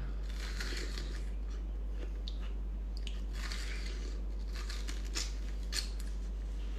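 Biting and chewing watermelon: teeth scrape the last red flesh off the rind in a scatter of small crunches, with a couple of louder ones about five and six seconds in. A steady low hum runs underneath.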